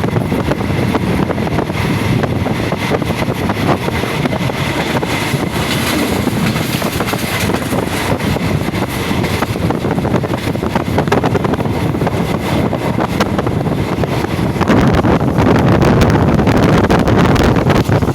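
Passenger train running, a steady rumble and rattle of wheels on rail with wind buffeting the microphone. It grows louder about fifteen seconds in.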